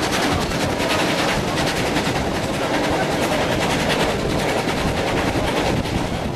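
BB18¼ class steam locomotive running along, its exhaust beats coming in a rapid, even rhythm over the steady rumble of the train.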